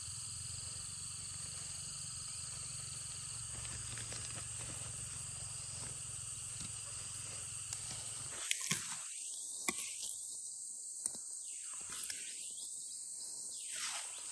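Steady, high-pitched drone of forest insects, with a few sharp clicks in the last six seconds or so.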